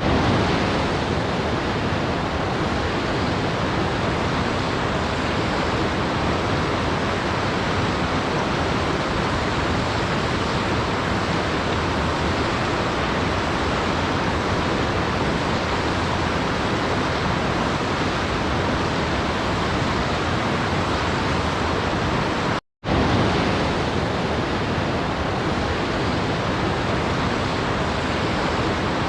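Waterfall rushing steadily, an even, unchanging water noise. It drops out completely for a split second about three-quarters of the way through, then resumes.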